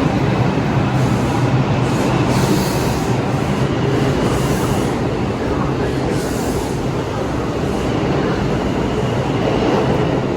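New York City subway train running in the station: a steady rumble and hum, with a brief hiss swelling high up every couple of seconds.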